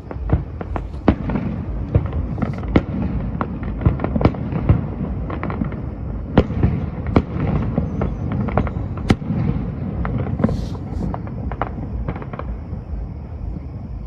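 Aerial fireworks display: many shells bursting in quick succession, sharp cracks over a continuous low booming rumble.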